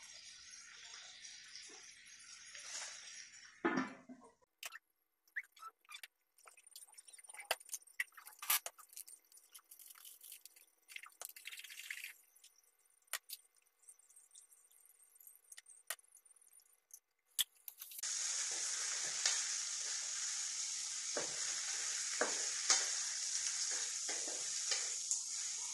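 Beef pieces sizzling in an oiled wok, stirred with a wooden spatula. Near four seconds in there is a knock and the sizzle drops to a muffled hush with scattered clicks under a lid, and about eighteen seconds in it comes back loud and steady as the wok is uncovered and stirred again.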